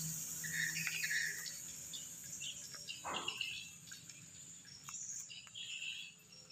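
Faint short chirps of small birds, scattered irregularly.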